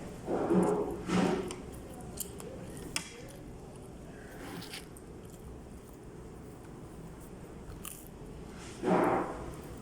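A person eating soup close to the microphone: chewing and small mouth sounds, with three short vocal noises, two about half a second and a second in and one near the end.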